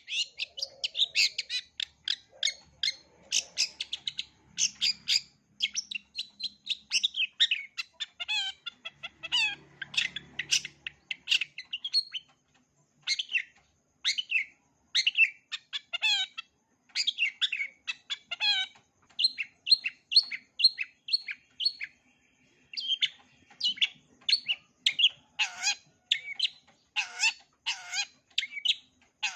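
Long-tailed shrike (cendet) singing a fast, varied run of short chirps, trills and sharp whistled notes, several a second, with two short pauses. The song is full of calls copied from other birds.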